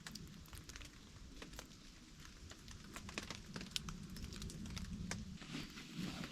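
Irregular small crackles and clicks, several a second, over a faint low rumble.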